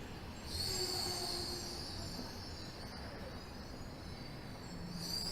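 Interior of a Tokyo Metro 13000 series subway car braking into a station. A low running rumble underlies a high-pitched brake squeal that sets in about half a second in, fades after a couple of seconds, and comes back near the end as the train stops.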